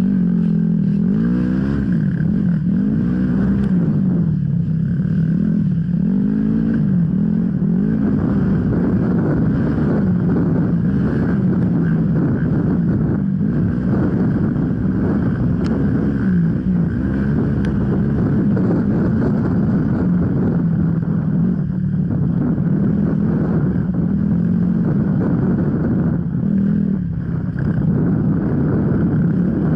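Off-road enduro motorcycle engine under constant throttle changes, its pitch rising and falling every second or two as the rider accelerates and backs off.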